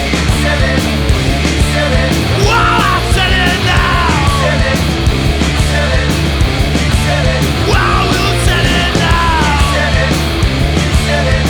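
Punk rock band playing a loud instrumental passage: distorted electric guitars, bass and drums, with sliding high notes.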